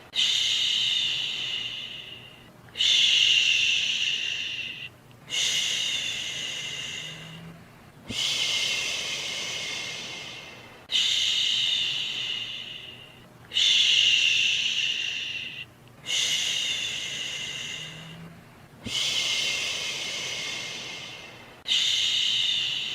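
Repeated soothing 'shhhh' shushing for calming a baby, nine shushes in a row. Each starts suddenly and fades away, one every two and a half to three seconds.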